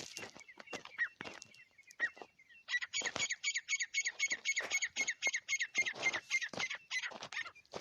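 A teetar (partridge/francolin) calling: a fast run of high, repeated notes, about five a second, that starts a little under three seconds in and stops shortly before the end. Scattered sharp knocks and short falling chirps come before it and continue underneath.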